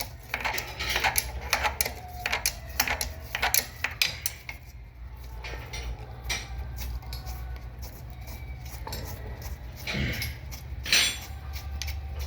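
Metal tools and engine parts clinking and tapping as the top end of a 2003 Honda Fan 125 engine is dismantled. Dense clicks for the first few seconds, then sparser, with two louder knocks near the end.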